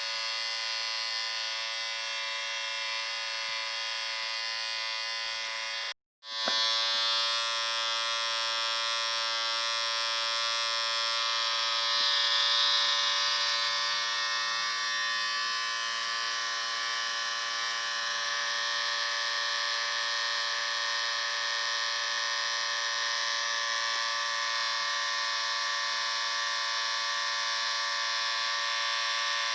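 Electric shaver motor buzzing steadily. It cuts out completely for a moment about six seconds in, then buzzes on.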